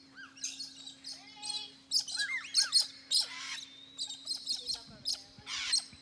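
Parrots calling in flight: a busy run of short chirps and arched calls mixed with a few harsh screeches, loudest about two to three seconds in.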